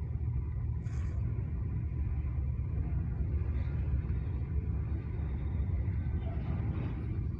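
Freight train of grain hopper cars rolling past, a steady low rumble of wheels on rail.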